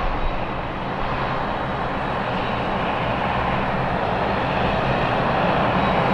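Jet airliner engines running, a steady noise that grows slowly louder.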